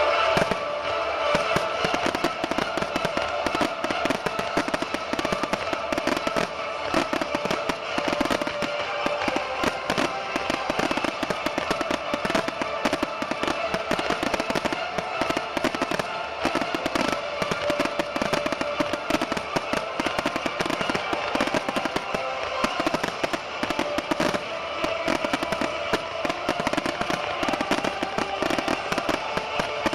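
Aerial fireworks going off in dense, rapid volleys of pops and crackling, without a break, over background music played with the show.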